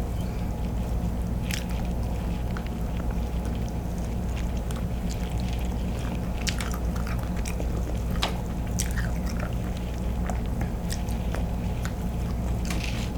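Close-miked eating and handling of king crab: scattered small clicks and crackles of shell and mouth sounds over a steady low hum.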